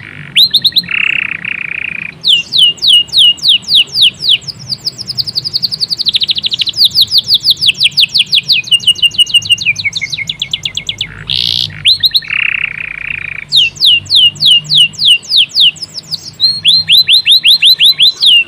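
Canary singing loudly and without a break: long runs of fast, repeated, falling whistled notes, twice broken by a short, lower buzzy rattle, about a second in and again about twelve seconds in.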